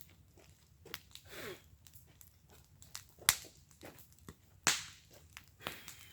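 Wood fire burning in a fire pit, crackling with irregular sharp pops; the two loudest snaps come a little after three seconds in and just before five seconds in, with a short hiss at about a second and a half.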